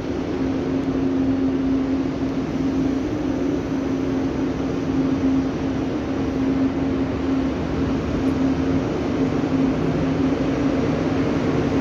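Deutsche Bahn ICE train moving past along the platform: a steady hum with a few held tones over an even rushing noise, growing slightly louder toward the end.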